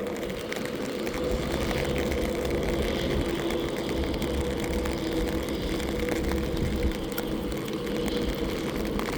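Steady engine hum with a low rumble and two held tones, amid a haze of light rain patter.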